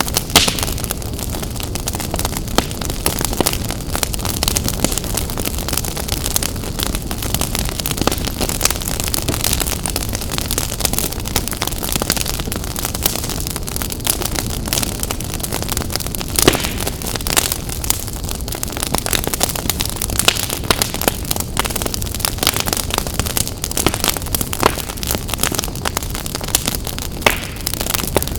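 Fire burning in a fireplace: a steady hiss with frequent crackles and sharp pops, the loudest pops just after the start and a little past halfway.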